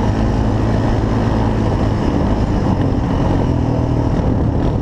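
Four-wheeler (ATV) engine running steadily while being ridden, a continuous low drone with no let-up.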